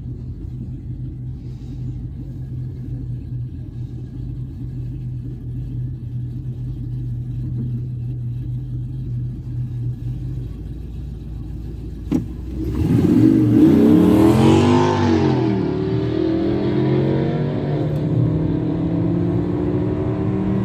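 Two V8 drag cars idling side by side, then about twelve seconds in a sharp click and a loud launch at wide-open throttle. The nitrous-fed LT1 Camaro's engine pitch rises and falls through the gears alongside, and the engine of the car carrying the microphone climbs steadily as it accelerates.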